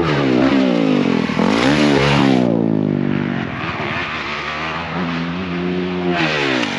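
Motocross bike engine revving hard, its pitch climbing and dropping sharply a few times in the first couple of seconds as the throttle is opened and shut, then running on at a steadier high rev.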